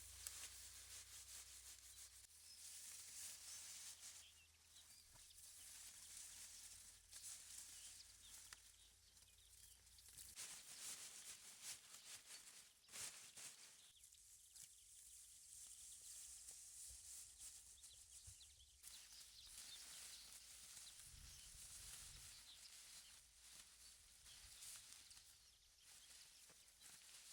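Near silence: faint outdoor ambience, a wavering high hiss with a few faint clicks and rustles.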